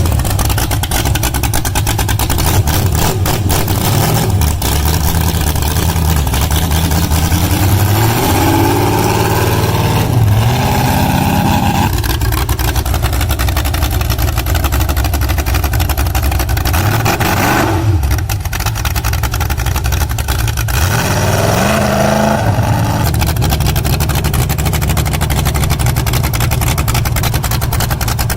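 Small-block Chevy V8 swapped into a John Deere lawn tractor, running loud and revved several times, its pitch rising and falling about a third of the way in, again past the middle, and once more later on.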